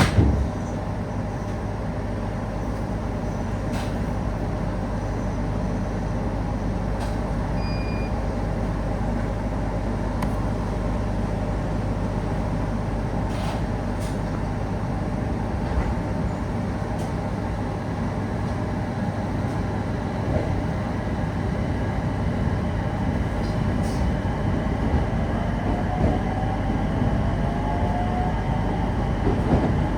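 Local passenger train heard from inside the carriage, running with a steady rumble of wheels on rail and occasional sharp clicks. Near the end a faint motor whine rises in pitch.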